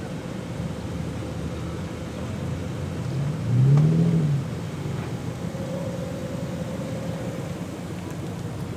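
Car engines running at low speed as cars creep past, with one engine revved once about three and a half seconds in, its pitch rising and falling back within about a second.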